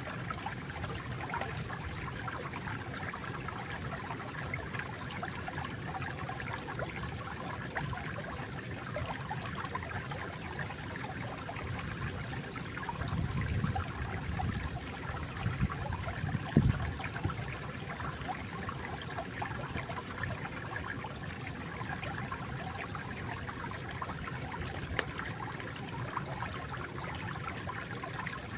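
Water trickling and burbling steadily over rocks in a small stream, with a brief fuller gush about halfway through.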